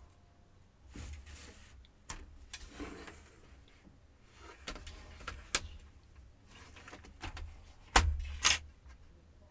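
Scattered clicks, knocks and rattles of a plastic laptop case being handled and pried at during disassembly, with two sharp knocks close together about eight seconds in.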